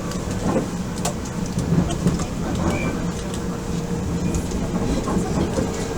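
Odakyu 1000 series electric train running at speed, heard inside the passenger car: a steady rumble of wheels on rail, with a faint steady tone and scattered short clicks.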